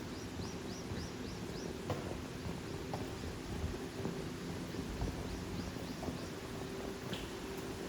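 Outdoor ambience of a steady rushing noise, with a small bird repeating a quick run of short high chirps near the start and again faintly around the middle, and a few faint clicks.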